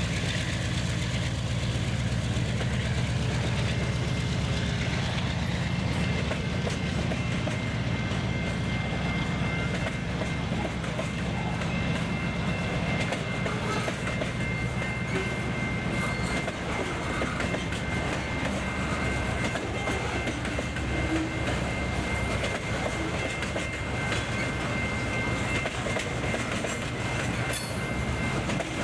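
Freight train rolling past: a continuous clatter of freight-car wheels over the rail joints over a low rumble that eases about halfway through, with a thin high steady squeal joining partway in.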